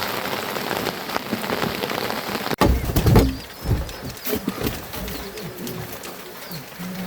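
Steady rain falling, cut off abruptly about two and a half seconds in. Then comes a quieter stretch with a heavy low thump and a few short bird calls.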